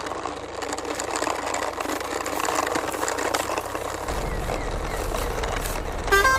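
Cartoon vehicle engine sound effect, a dense rattling clatter like a machine running, with a low hum coming in about two-thirds through. A tune of stepped tones starts right at the end.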